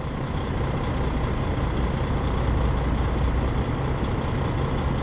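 Semi truck's diesel engine idling steadily, a constant low hum with no change in speed.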